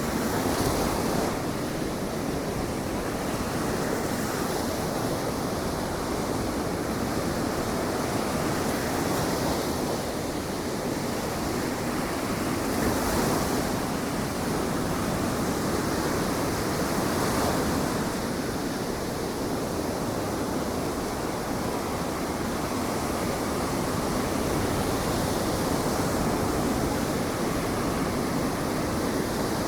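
Ocean surf breaking on a beach, a steady rush with gentle swells as waves come in, with some wind on the microphone.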